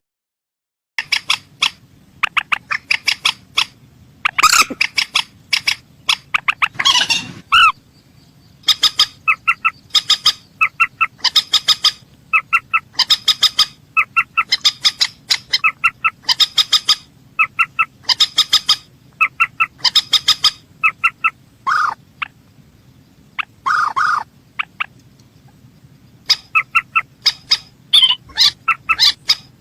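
Mandar sawah rail calling: repeated groups of quick, clipped notes, one group about every second, with now and then a lower, drawn-out note.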